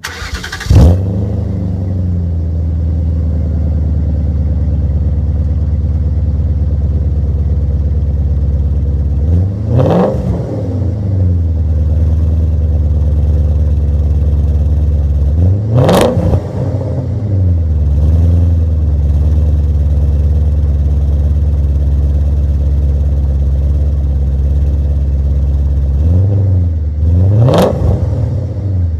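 2001 BMW M5 E39's 4.9-litre V8 through a straight-piped exhaust with no catalytic converters: it fires up with a loud flare about a second in and settles to a steady idle, then is revved in three short blips, each rising and falling back to idle.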